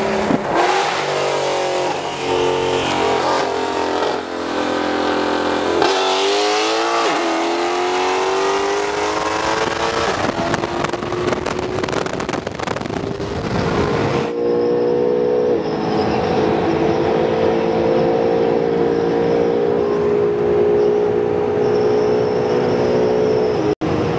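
Car engines at full throttle on a highway pull, the pitch climbing and dropping back at gear shifts about 4 and 6 seconds in. From about 14 seconds in the sound is muffled, heard from inside a car's cabin: a steady engine drone slowly rising in pitch.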